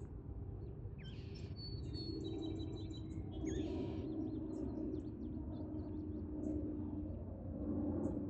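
Birds calling: two harsh, scratchy calls and a quick run of short high chirps, with scattered small chirps, over steady low background noise.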